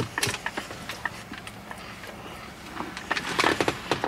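Close-miked chewing of a chicken nugget: wet mouth clicks and smacks, with a denser run of them about three seconds in.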